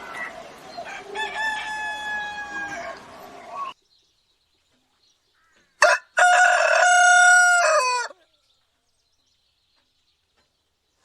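Rooster crowing twice: a crow over outdoor background noise that cuts off abruptly about four seconds in, then, after a short silence, a single loud crow of about two seconds whose pitch drops at the end.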